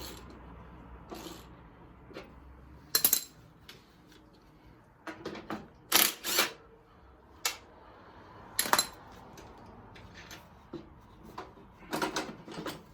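Hand tools and loose metal parts clinking and knocking during disassembly work: scattered sharp clanks, loudest about three, six and nine seconds in, with a few more near the end.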